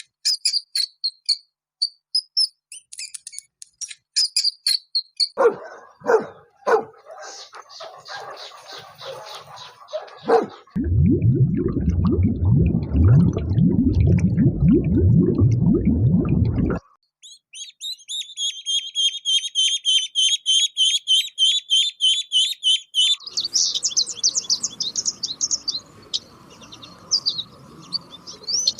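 A run of different animal calls in succession. High chirps come first, then after about ten seconds a loud, low, rough sound lasting about six seconds, then a fast high trill.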